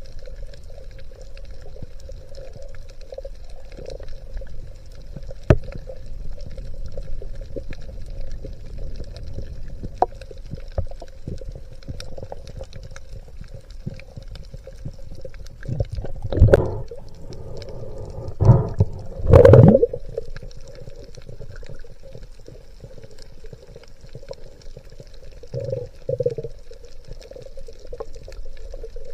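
Water sounds heard through a spearfishing camera's housing: a steady muffled rumble and sloshing, with three short louder rushes of water or bubbles about two-thirds of the way through.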